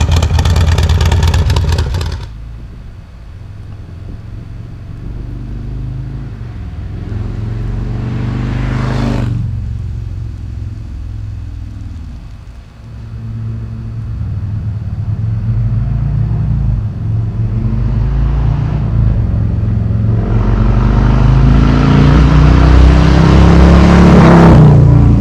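Harley-Davidson Road Glide Limited's Milwaukee-Eight V-twin through a Dirty Bird Concepts 2-into-1 exhaust with a Woods 22XE cam, riding by under throttle. It is loud and drops off sharply about two seconds in. It swells and revs past around nine seconds, then grows steadily louder over the last five seconds as it accelerates toward the microphone.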